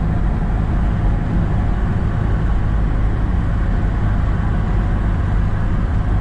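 Van driving at highway speed: a steady, even rumble of engine and road noise.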